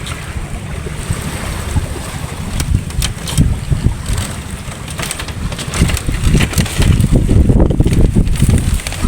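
Strong sea wind buffeting the microphone, a gusty rumbling noise that grows louder in the last few seconds.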